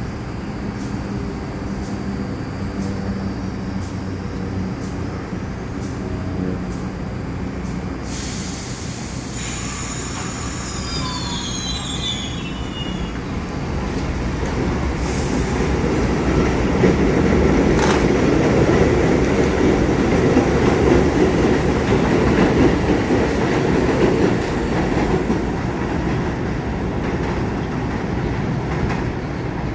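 New York City Subway 1 train on the rails: a steady low hum, then brief high wheel squeals that fall in pitch about ten seconds in. The train's rumble then grows louder for several seconds and eases off near the end.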